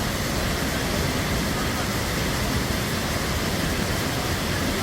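Steady, even rush of Cheonjiyeon Waterfall's falling water.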